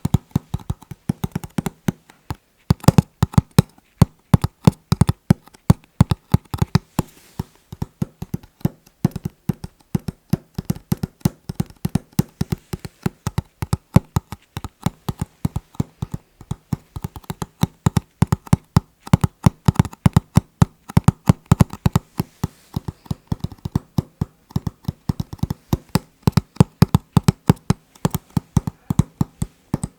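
Fingertips tapping rhythmically on hard objects, several quick, sharp taps a second with brief pauses.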